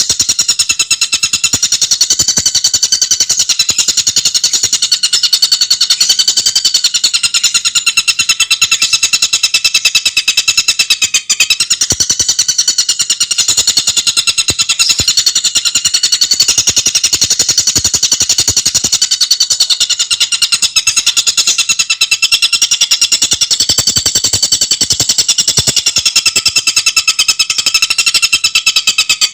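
Tengkek buto bird calling in a continuous, very fast rattling trill, the notes packed tightly together. The trill is high-pitched and rises and dips slightly in pitch.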